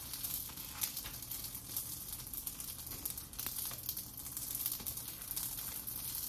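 Rice paper egg wrap frying in a nonstick pan: a steady sizzle with scattered sharp crackles as the spatula scrapes and presses the crisp rice paper shell, which has a bit of a crunch.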